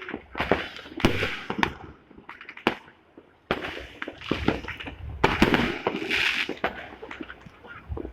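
Fireworks and firecrackers going off, many sharp cracks and pops over continuous crackling. A brief lull comes about three seconds in, then a louder, denser stretch.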